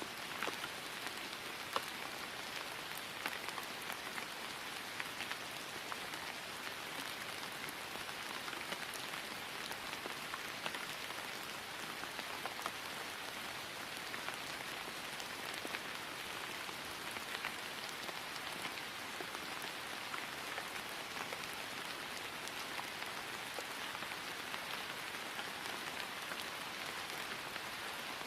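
Steady rain falling on grass, an even hiss dotted with the soft ticks of individual drops.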